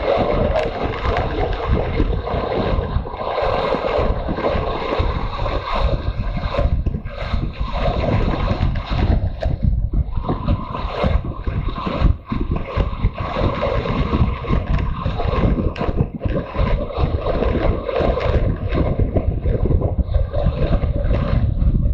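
Motorcycle riding at speed: the engine running steadily under heavy wind buffeting on the microphone.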